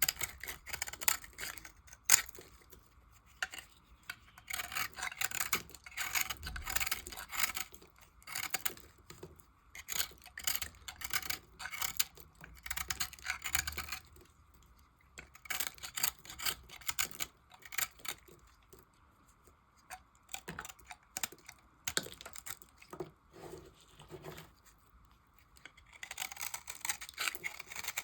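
A knife cutting through dry scraps of bar soap: crisp crackling in repeated bursts of one to three seconds, with short pauses between the cuts.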